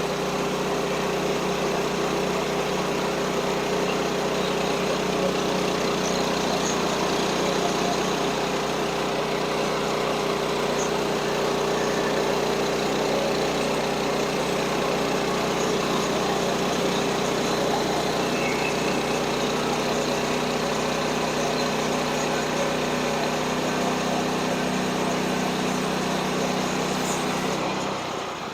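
Small gasoline engine of a portable bandsaw sawmill running steadily at a constant speed, dropping away just before the end.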